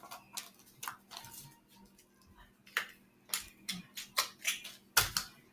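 Irregular light clicks and taps, about a dozen, with one louder knock near the end.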